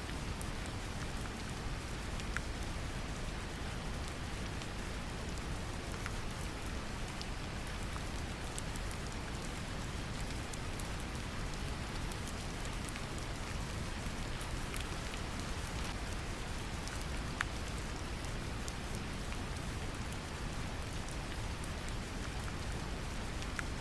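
Steady brown noise with gentle rain laid over it: a deep, even rumble under a constant patter, with scattered single drop ticks.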